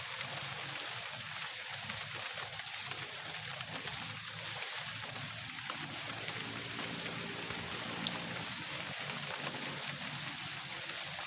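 Steady hiss of light rain falling on the garden, with no break.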